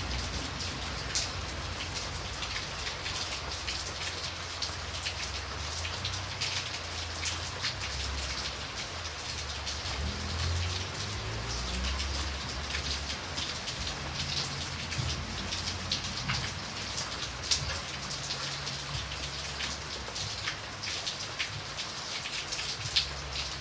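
Steady rain, with individual drops ticking sharply on a surface over the hiss of the shower. A soft low rumble sits underneath.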